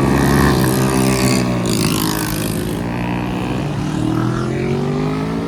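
Volkswagen Golf VR6's six-cylinder engine running loud as the car pulls away. Its pitch sags, then climbs again about four seconds in as it revs back up, with a rushing hiss over the first half.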